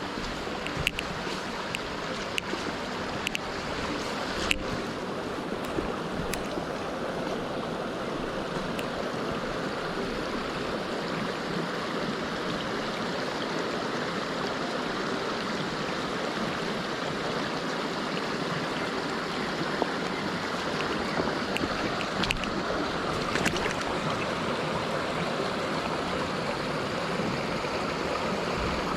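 Mountain stream water rushing steadily over rocks, with a few brief clicks now and then.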